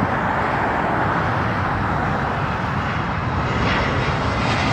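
Jet airliner on approach to land, its engines giving a steady, even rush of noise as it passes.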